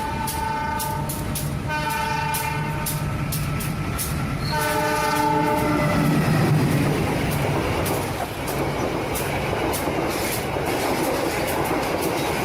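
Train horn sounding three times, the third blast the longest, over the steady running noise of a train with a rhythmic clickety-clack of wheels.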